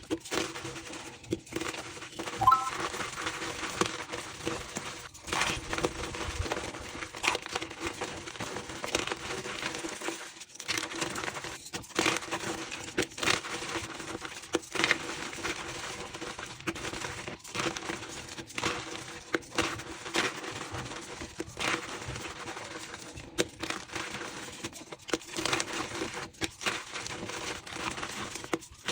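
Blocks of reformed gym chalk being crushed, with dense, rapid crunching and crumbling, played sped up. A short squeak sounds about two and a half seconds in.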